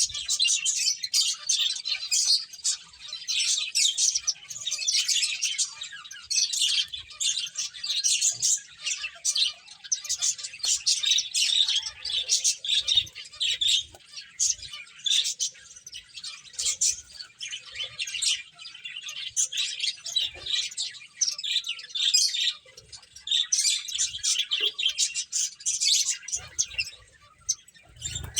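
Several pet finches chirping in quick, high-pitched calls that overlap almost without a break, easing off briefly near the end.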